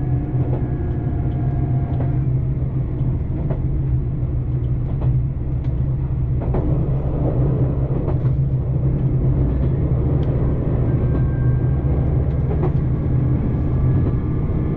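Steady low drone of a JR Shikoku 2700 series diesel railcar running, with a few faint clicks, such as wheels passing over rail joints, now and then.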